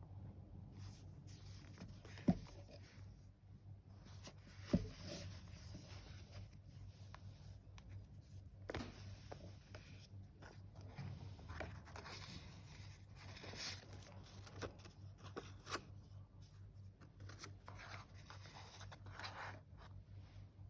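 Paper pages of a handmade junk journal being turned and handled: faint, scattered paper rustling and scraping, with two sharp taps about two and five seconds in, over a low steady hum.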